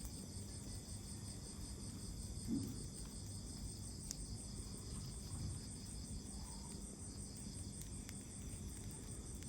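Crickets chirping in a steady, high, pulsing trill, with a low rumble beneath. There is a brief low thump about two and a half seconds in and a sharp click about a second later.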